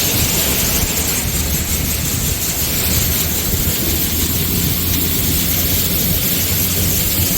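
Combine harvester running steadily under load: a low engine hum beneath a loud, even rushing noise.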